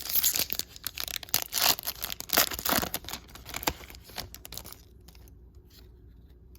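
A trading-card pack wrapper being torn open and crinkled by hand, a dense run of tearing and crackling that stops about four and a half seconds in.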